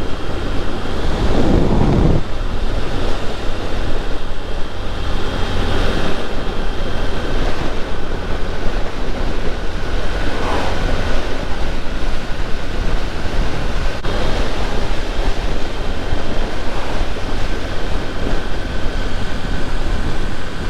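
Strong wind buffeting the microphone, a heavy steady rumble, while riding a small Honda motorcycle in gusty open country; the bike's engine is faint underneath.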